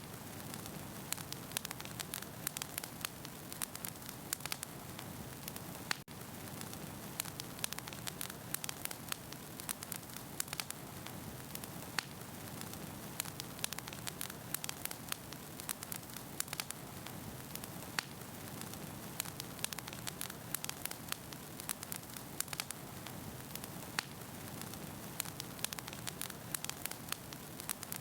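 Wood fire burning in a fireplace: a steady hiss with frequent sharp pops and crackles from the burning logs, and one brief drop in level about six seconds in.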